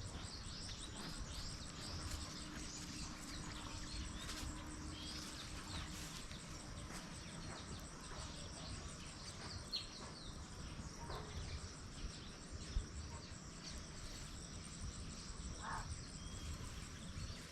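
Outdoor ambience of many small birds chirping over and over, with an insect's steady fast trill high above and a low steady rush underneath. Two brief sharp clicks stand out, about ten and thirteen seconds in.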